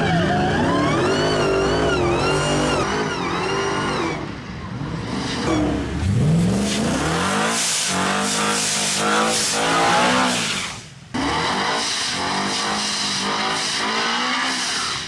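Drag-racing truck engines at full throttle, pitch climbing and dropping through several gear changes, with some tire noise.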